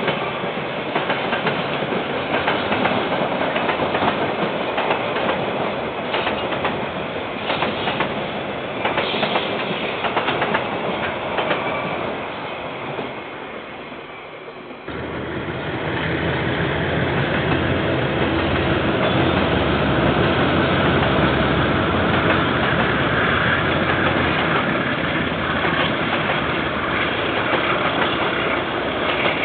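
Railway wagons rolling past with the clickety-clack of wheels over the rails, fading away. About halfway through, a louder steady low drone of a diesel locomotive engine starts abruptly and carries on.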